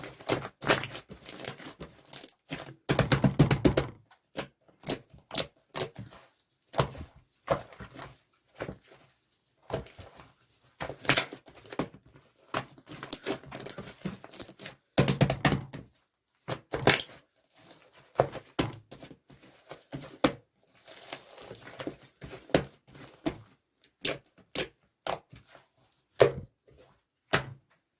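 Opaque slime being squeezed, pressed and stretched by hand, making irregular small clicks, pops and squelches, with denser crackling runs about three seconds in and again about fifteen seconds in.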